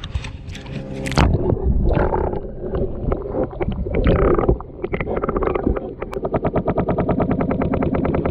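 Irregular handling knocks and water noise as a bass is let go from a kayak. About six seconds in, a fast, steady rattling pulse begins, several beats a second.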